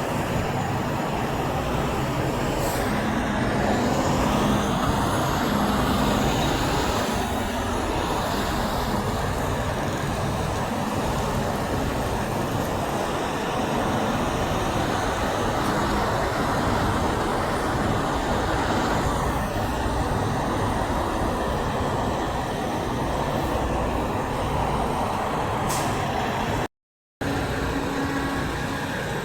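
Semi trucks running and passing: a steady, loud mix of diesel engine and road noise, broken by a brief dropout near the end.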